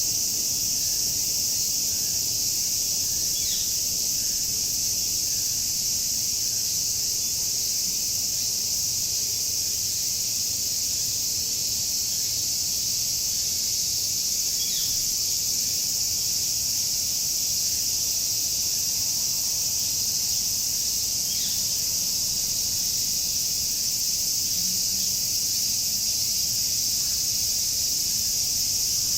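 A chorus of cicadas shrilling in one steady, unbroken high-pitched drone. A bird chirps briefly about three times through it.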